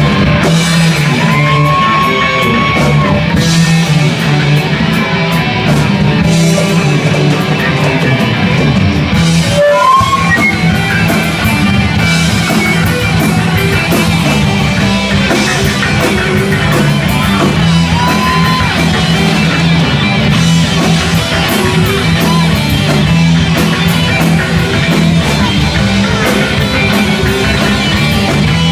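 Heavy metal band playing an instrumental passage: distorted electric guitars with bass and drums, loud and continuous, with bending lead-guitar notes over the riff.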